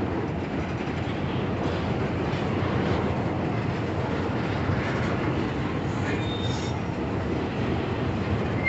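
Train rolling past on the rails with a steady rumble of wheels and cars, and a few brief, faint wheel squeals about six seconds in and again at the end.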